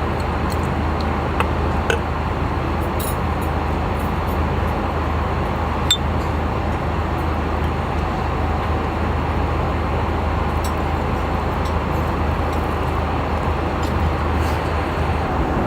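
Steady cabin noise of an airliner in flight, a constant low hum under an even rush of air, with a few light clinks of cutlery and dishes on a meal tray, the sharpest about six seconds in.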